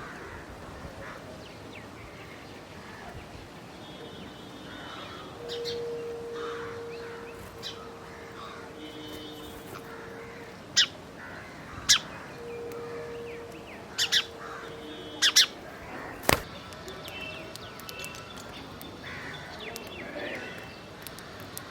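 Birds calling: crows cawing with chirping birds, about seven short, sharp, loud calls bunched in the second half. A long steady low tone sounds twice in the middle.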